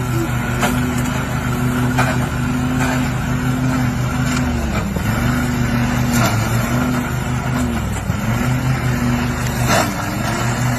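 A motor vehicle's engine running hard at a steady pitch. The pitch dips briefly and comes back up several times, with a few sharp knocks.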